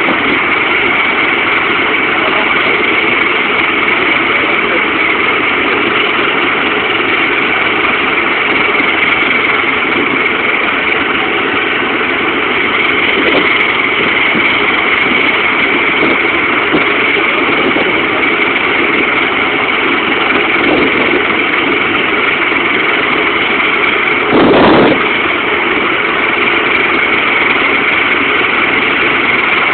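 Helicopter running steadily, a constant high turbine whine over the rotor and engine noise. About twenty-four seconds in there is a brief, louder rush of noise.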